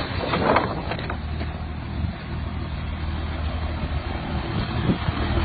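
A truck engine running with a steady low drone, and a couple of faint knocks.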